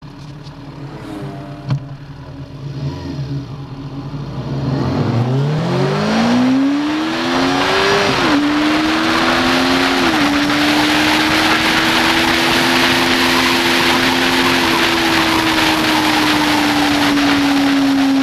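Yamaha FZ6N's 600 cc inline-four, with a Leo Vince aftermarket exhaust, running at modest revs and then accelerating hard, rising in pitch with two upshifts about 8 and 10 seconds in, before holding high steady revs at speed. Heavy wind rush joins in as speed builds.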